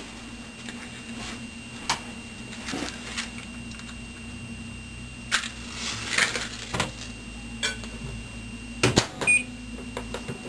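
Scattered clicks and scrapes of handling at a microwave oven, then a loud click as the microwave door shuts about nine seconds in, followed at once by a single short keypad beep, over a faint steady hum.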